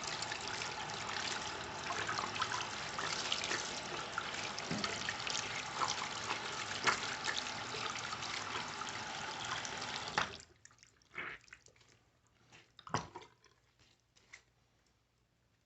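Steady running water, like a tap, that cuts off suddenly about ten seconds in, followed by a few scattered knocks and clicks.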